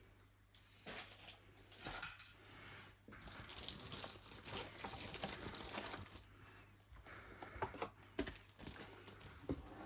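Rustling and crinkling of plastic packaging being handled and pulled open, with scattered small clicks and taps.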